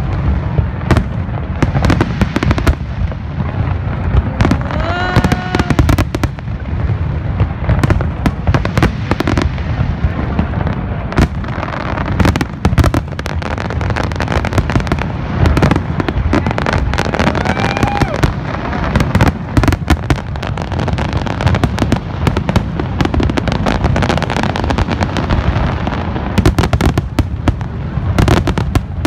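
Large aerial fireworks display: many shells bursting in rapid, overlapping volleys, a dense barrage of bangs and crackles over a continuous low rumble.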